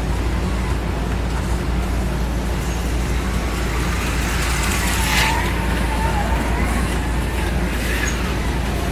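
HO-scale slot cars' small electric motors whining, rising and falling in pitch as the cars speed up and slow, over a steady low hum. The whine is loudest about five seconds in, as a car passes close.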